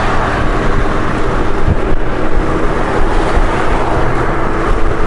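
Honda Gold Wing flat-six motorcycle riding at speed: steady engine hum under a heavy rush of wind and road noise on the bike-mounted microphone.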